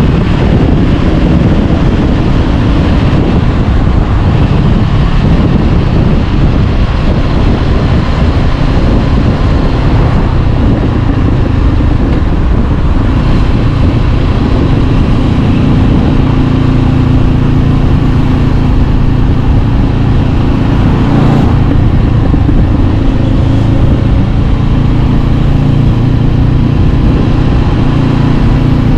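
Honda CB500X parallel-twin engine breathing through an Arrow Pro-Race exhaust while riding, its pitch rising and falling with the throttle, steadier in the second half.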